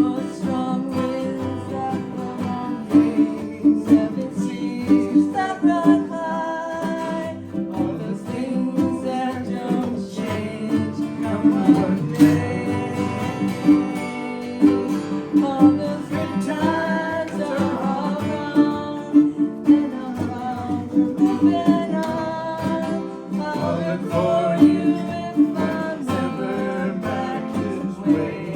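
Acoustic guitar strummed in a steady rhythm, with a melody line carried over it, as in a folk song performance.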